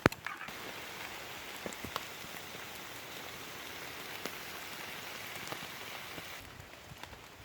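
Steady rain falling, an even hiss with scattered louder drops ticking, easing off about six and a half seconds in. A single sharp knock right at the start is the loudest sound.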